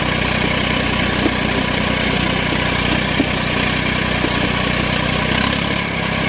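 Tractor diesel engine running steadily, with a brief dip in level and a shift in pitch near the end.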